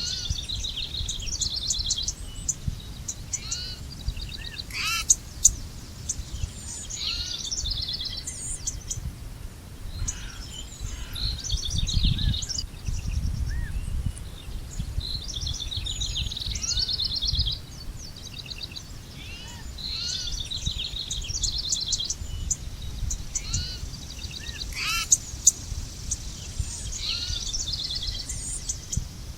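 Songbirds singing outdoors: repeated quick trills and high chirps overlapping throughout, with a few sharper, louder notes near the start and near the end. A low rumble, like wind, runs underneath and swells about halfway through.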